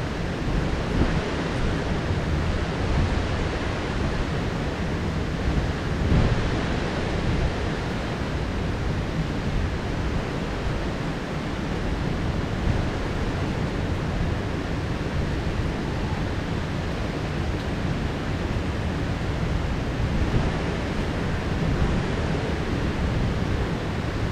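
Heavy rain pouring in a steady downpour, a dense even hiss with small swells in level.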